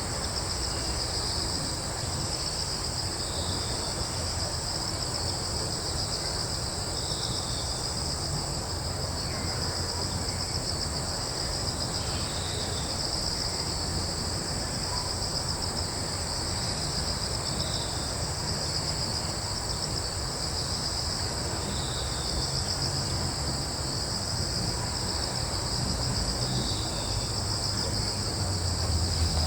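Steady chorus of crickets trilling in two continuous high-pitched bands, with a short chirp repeating about every two seconds, over a low steady rumble of breeze.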